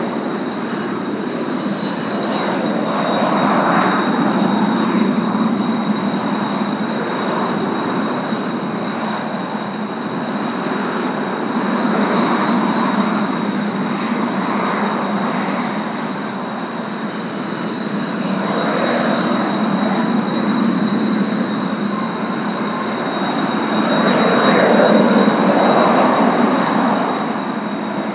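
Kawasaki T-4 jet trainers' turbofan engines running on the ramp: a steady high turbine whistle over a broad rush of jet noise. The whistle shifts in pitch now and then, and the noise swells and fades several times as the jets spool and move.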